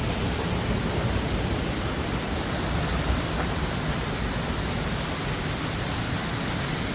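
Steady rushing of a spring-fed river as the water pours out from beneath rock.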